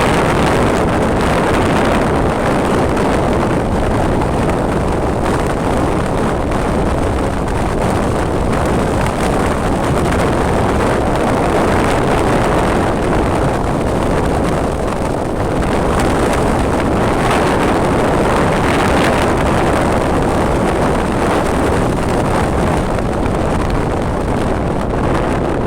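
Steady, loud rush of wind on the microphone of a moving motorcycle, mixed with engine and road noise.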